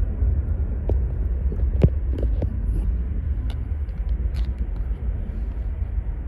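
Low, steady rumble of an Airbus A330 airliner's jet engines on approach to land, with a few sharp clicks over it.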